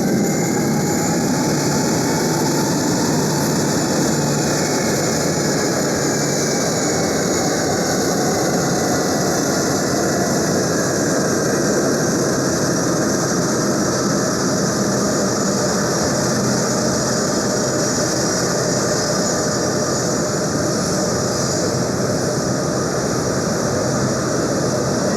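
Boeing C-17A Globemaster III's Pratt & Whitney F117 turbofan engines running steadily on the ground: a loud, continuous rushing noise with a steady whine over it.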